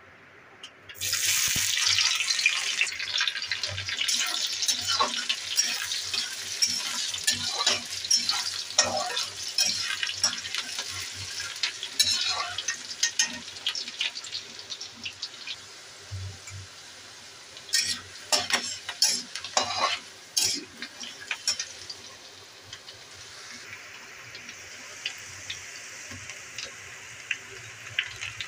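Garlic and green chillies frying in hot oil in a wok. A sudden loud sizzle breaks out about a second in and slowly settles, with a metal spatula clicking and scraping against the pan now and then.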